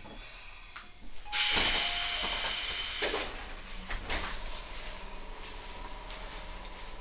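Tobu 10000 series commuter train: about a second in, a loud burst of compressed-air hiss lasting about two seconds. Then come a low hum and several steady tones from the train's equipment.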